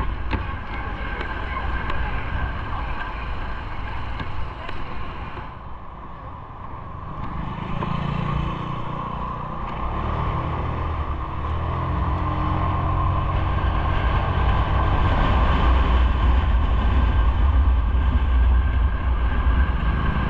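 Steady rumble of road and wind noise while riding in traffic. A vehicle engine rises in pitch about eight seconds in, and the rumble grows louder toward the end.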